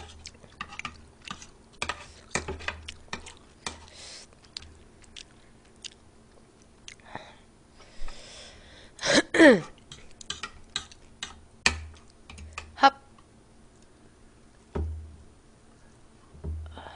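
Close-miked eating: a person chewing fried rice, with irregular soft mouth noises and light clicks of a utensil on a plastic tray. Just after nine seconds in comes the loudest sound, short and falling steeply in pitch.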